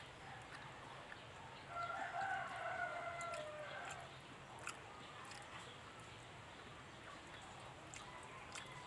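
A rooster crowing once, one drawn-out crow of about two seconds starting near two seconds in and falling off at its end, with faint scattered clicks around it.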